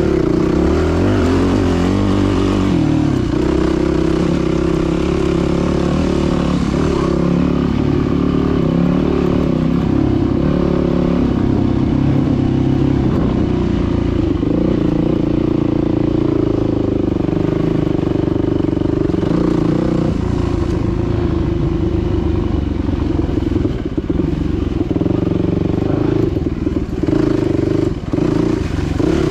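Dirt bike engine running under way on a trail, its revs rising and falling as it rides.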